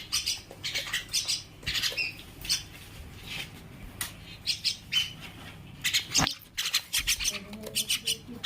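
Common mynas calling in a run of short, high calls, with a lull a few seconds in before the calls pick up again.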